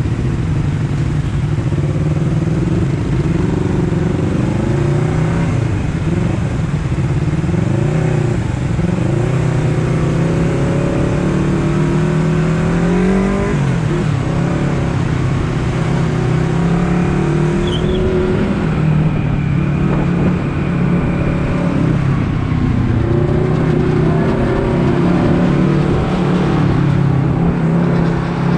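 Honda CBR250RR's parallel-twin engine running under way, its revs climbing and dropping again and again as the rider accelerates and changes gear.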